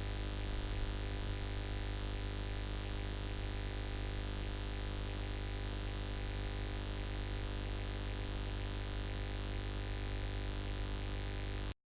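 Steady buzzing hum with hiss, unchanging throughout, cut off abruptly near the end.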